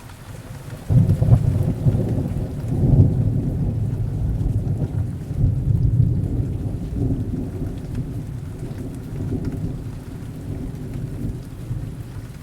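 A long roll of thunder that breaks in suddenly about a second in and rumbles on, swelling and slowly fading, over steady heavy rain.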